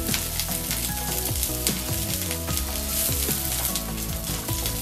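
Cauliflower florets sizzling in hot oil in a nonstick kadai, with a wooden spatula scraping and lifting them out of the pan. Background music plays underneath.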